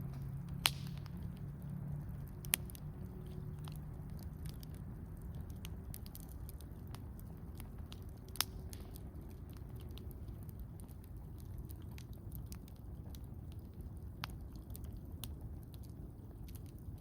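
Wood campfire crackling steadily with many small snaps, and three sharper pops, about a second in, near three seconds, and past eight seconds, over a low steady rumble.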